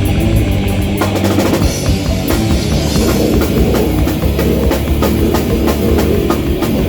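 A live rock band playing loud and heavy, the drum kit pounding out fast kick and snare hits under distorted guitars.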